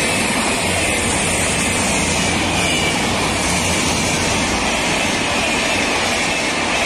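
Long passenger train of red-and-grey coaches running through the station at speed: a steady, loud rush and rumble of coaches and wheels on the track, with a faint high whine drifting in pitch.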